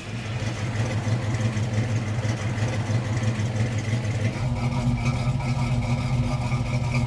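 1966 Chevrolet El Camino engine idling steadily through its new custom X-pipe dual exhaust and mufflers. The note changes about four seconds in, taking on a fuller, more even hum.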